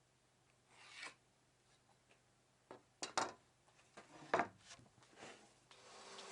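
A handful of separate scraping strokes of an abrasive worked by hand over wood, during the building of a wooden cajon. Near the end a steady hum with a few fixed tones starts up and keeps going.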